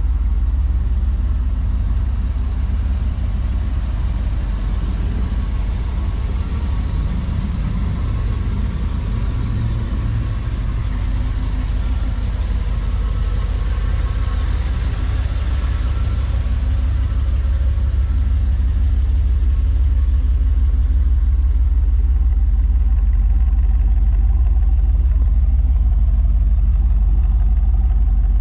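1985 Camaro IROC-Z's 305 tuned-port-injected V8 idling, a steady low rumble.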